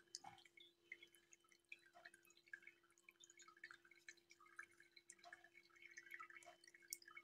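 Faint, irregular little pops and drips of juniper-berry molasses simmering in a pot on a wood stove as it boils down to thicken, over a faint steady hum.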